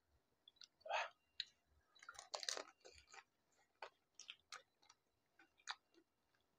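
Pani puri being eaten close to the microphone: crisp puri shells crunching and being chewed. Faint, scattered crunches, with a louder one about a second in and a denser run around two and a half seconds.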